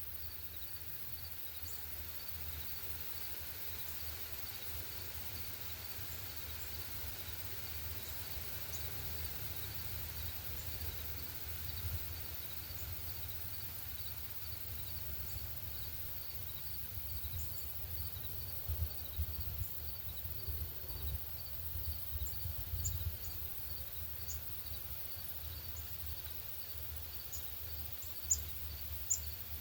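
Outdoor ambience: a steady low rumble under an insect's faint, evenly repeating high chirp. Short, high songbird chirps come now and then and grow more frequent and louder near the end.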